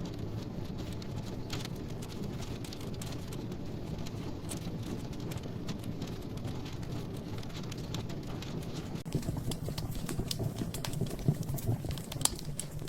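Log fire crackling: a steady low rush of flames with scattered sharp pops and snaps, which come thicker and louder in the last few seconds.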